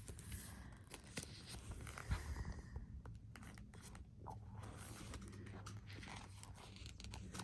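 Faint rustling and scraping of stiff paper pages being handled and turned, with scattered soft ticks.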